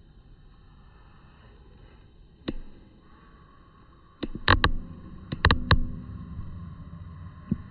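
About eight sharp knocks and bumps: one about two and a half seconds in, a cluster of six between four and six seconds in, and one near the end, over a faint steady hiss.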